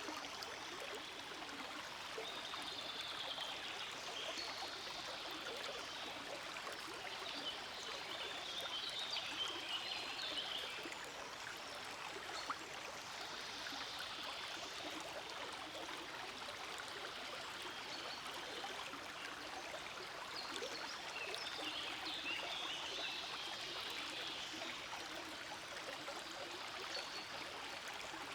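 Small forest stream flowing and babbling steadily over stones, with a bright trickling splash that swells briefly a few times.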